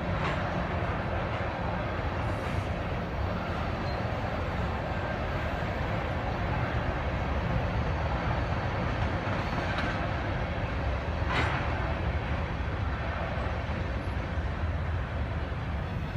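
Freight train of crude oil tank cars rolling past, a steady rumble of wheels on rail, with one sharper clank about eleven seconds in.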